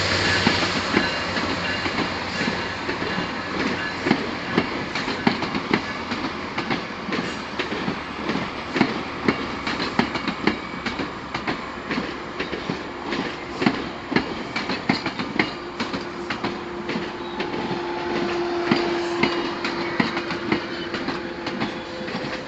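GO Transit commuter train pulling out, its bilevel coaches' wheels clicking over the rail joints in an irregular, continuous clatter. A low engine hum fades out about a second in, and a steady tone sounds for several seconds in the latter part.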